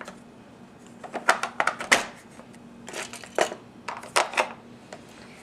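Plastic pieces of a Take-N-Play portable toy railway playset clicking and knocking as they are folded in and snapped into place, in three quick clusters.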